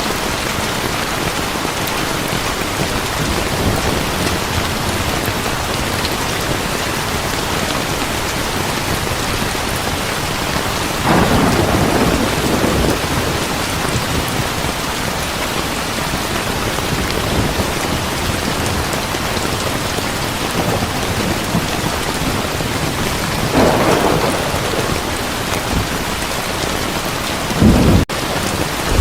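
Heavy rain falling steadily, with rumbles of thunder swelling up about eleven seconds in, again near twenty-four seconds, and briefly near the end.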